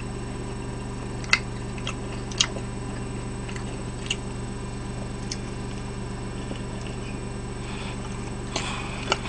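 Close-miked chewing of a mouthful of pizza: a few soft mouth clicks spaced a second or more apart over a steady electrical hum, then a bite into the slice near the end.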